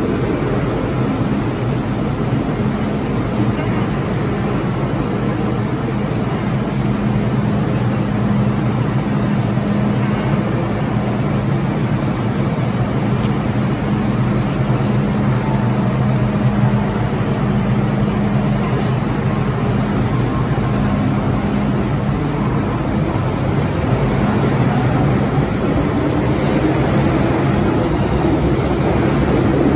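MTR M-train electric multiple unit standing at the platform with a steady low hum, then pulling away near the end, its motor whine rising in pitch as it picks up speed.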